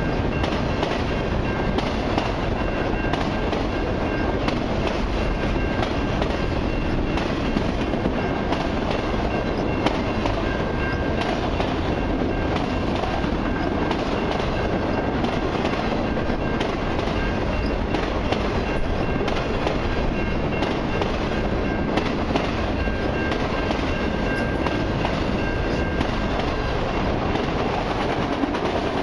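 Long freight train of autorack cars rolling past, a steady rumble of steel wheels on rail with frequent small clicks and clacks. A faint high whine comes and goes above it.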